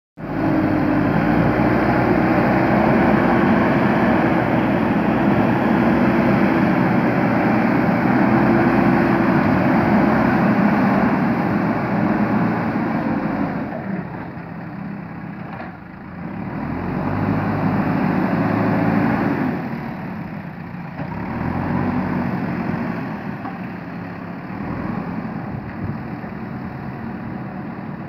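JCB backhoe loader's diesel engine running under load, steady and loud for about the first twelve seconds, then easing off and picking up again a few times.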